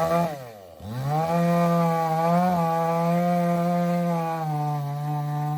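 Two-stroke chainsaw engine revving: the pitch drops and climbs sharply just before a second in, then holds at high speed with a slight waver and eases down a little near the end.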